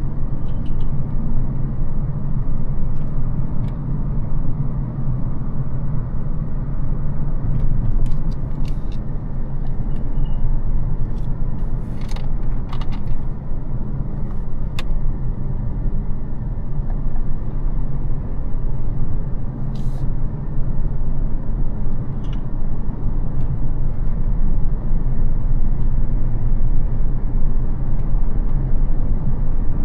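Mercedes CL600's 5.5-litre twin-turbo V12 (M275) running steadily under way, a continuous low drone with tyre and road noise. A few short sharp ticks come and go on top.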